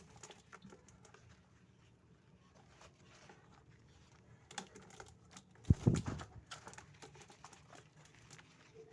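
Scattered light clicks and taps of a caged Javan myna moving and pecking about its cage, with one heavy low thump about six seconds in.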